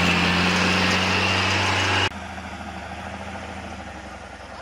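Logging truck engine running with a steady hum; about two seconds in the sound cuts abruptly to a quieter engine running.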